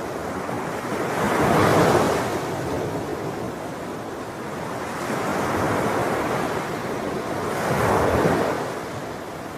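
Ocean waves breaking on the shore in a steady wash of surf, with two louder swells as waves break, about two seconds in and again near the end.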